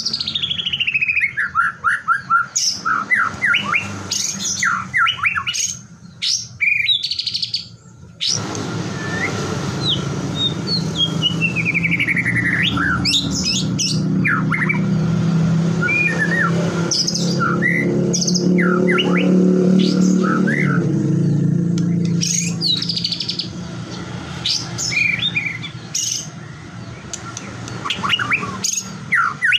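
White-rumped shama (murai batu) singing a varied song of whistles and trills, opening with a fast run of notes that falls steeply in pitch. From about eight seconds in a steady low hum runs underneath, loudest in the middle.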